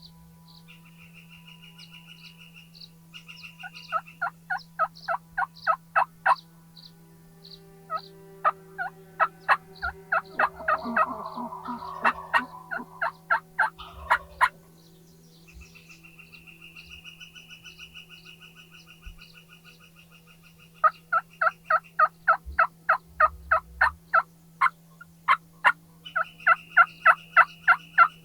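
Wild turkeys calling: several runs of evenly spaced yelps, with a rattling gobble in the middle. A small songbird trills between the runs.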